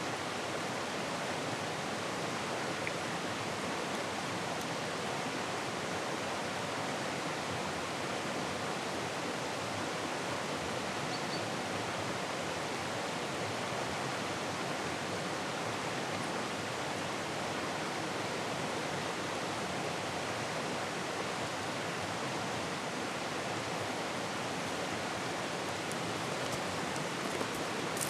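Small river rushing over rapids and riffles: a steady, even sound of running water.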